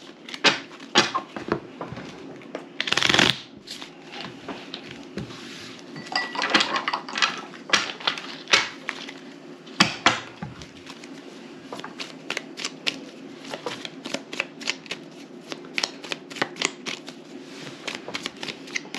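Playing cards being handled and shuffled on a table: a few brief rustling bursts and many light card clicks and snaps.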